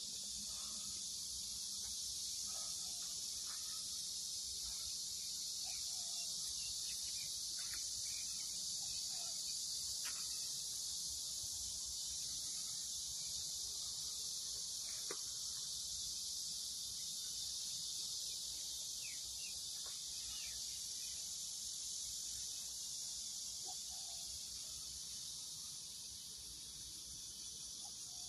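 Cicadas buzzing in a steady chorus, a dense high-pitched hiss that swells slightly midway and eases a little near the end.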